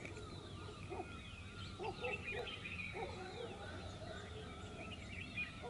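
Faint birdsong: many quick chirps and twittering calls, with a few lower, short calls about two to three seconds in.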